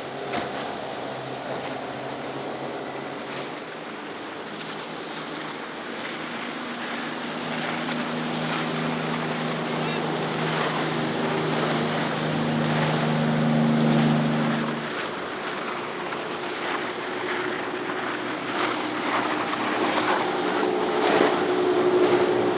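Motorboat engines running under way over the wash of waves and wake. One engine's drone grows louder and cuts off suddenly about fifteen seconds in; a second, higher-pitched engine comes in near the end.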